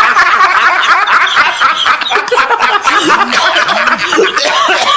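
Several high-pitched voices laughing and giggling together, overlapping without a break, cut off abruptly at the end.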